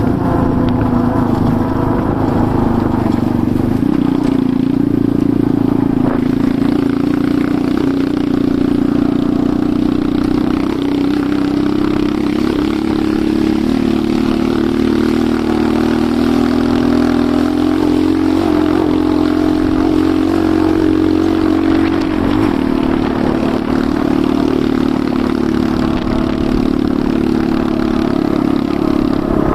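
Enduro motorcycle engine running while riding at a fairly steady throttle, its note rising and dipping slightly with the terrain.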